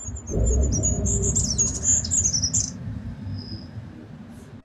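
Goldcrest singing: a quick run of very thin, high-pitched notes for about two and a half seconds, then one short high note, over a steady low rumble.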